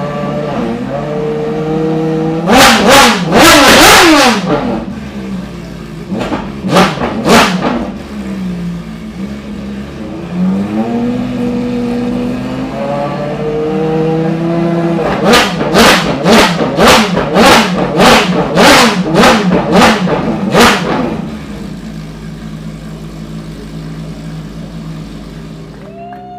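Ferrari V12 track car engines idling and being blipped to high revs. There is a burst of revs around three seconds in, two single blips near seven seconds, and a rapid string of about a dozen sharp blips from about fifteen to twenty-one seconds, after which the engines settle back to idle.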